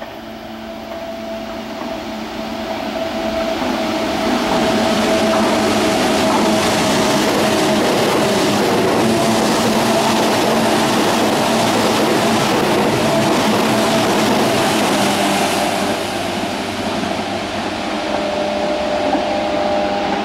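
Stainless-steel electric commuter train approaching and running through a station platform without stopping. The noise swells over the first few seconds, holds loud with wheel clatter and a steady whine as the cars pass, then eases off toward the end as the train recedes.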